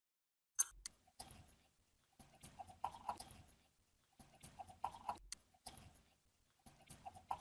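Clicking and clattering of small metal parts being handled, in irregular bursts that come every second or two and start suddenly about half a second in.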